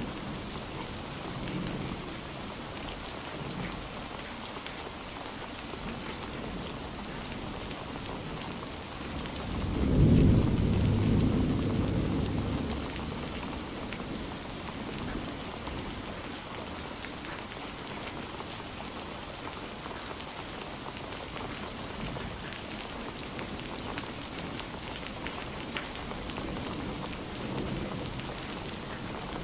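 Steady rain falling with thunder rolling. One loud low rumble swells about a third of the way in and fades over a few seconds, with fainter rumbles near the start and near the end.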